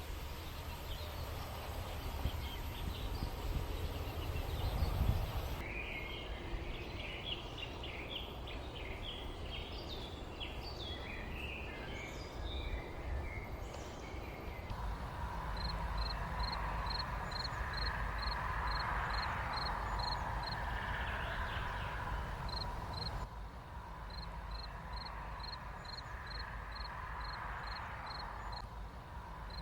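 Countryside ambience with small birds chirping. A busy burst of chirps runs through the first half, then a short high call note repeats evenly about two to three times a second. There is a low rumble in the first few seconds, and the background shifts abruptly a few times.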